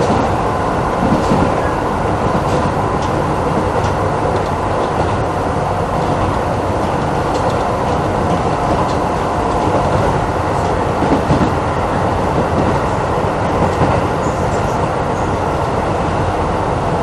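Renewed Keisei 3500-series resistance-controlled electric train running steadily between stations, heard from inside the passenger car, with a few faint clicks over the even running noise.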